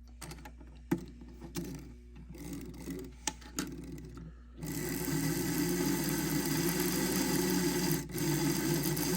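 A few light clicks and knocks of handling, then about four and a half seconds in the model railcar's small electric motor and freshly greased worm and nylon gears start running at a steady speed, with a brief dip near the end.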